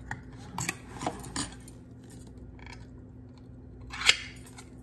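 Light clinks and knocks of kitchen handling at a plate, then one sharp crack with a short hiss about four seconds in as a metal can's pull-tab lid is pulled open.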